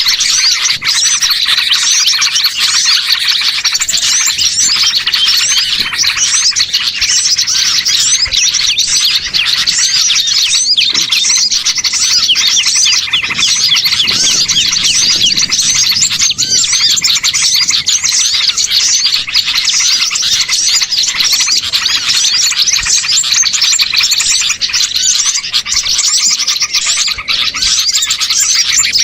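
Dense, continuous chorus of many small songbirds chirping and twittering over one another, a mixed bird-trapping lure recording played loud and steady.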